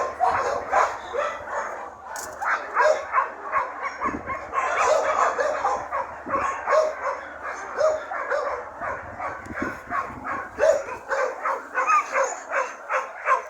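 Dog yipping and whining in rapid, repeated short calls, several a second, without a break.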